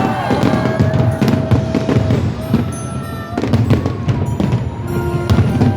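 Fireworks going off in quick bangs and crackles, mixed with loud music playing over them.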